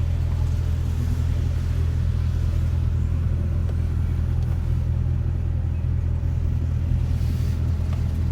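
Straight-piped 5.7-litre Hemi V8 of a 2021 Dodge Durango R/T running steadily at low revs, a deep even drone with no revving.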